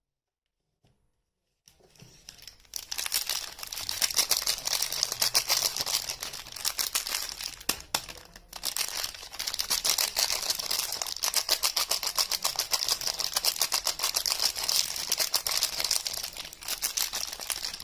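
Soap wrapping being unwrapped by hand: a dense, continuous crinkling and tearing that starts about two seconds in and breaks off briefly about eight seconds in.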